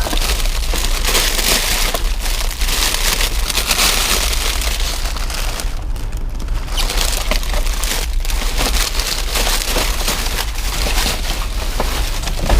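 Close, continuous rustling and crinkling of trash being rummaged through in a dumpster, with many small crackles and knocks.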